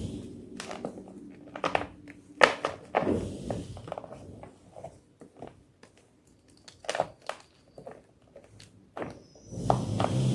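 White gym chalk being crushed and crumbled: scattered crunches and snaps with quiet gaps between them, the sharpest about two and a half seconds in and a heavier run of crunching near the end.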